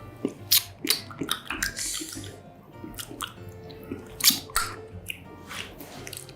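Close-up eating sounds of a fried mozzarella corn dog: a run of sharp, crisp crunches from the batter crust, mixed with wet chewing, the loudest crunch a little past the middle.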